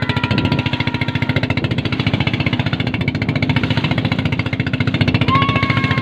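Motorboat engine running steadily under load with a fast, even pulse.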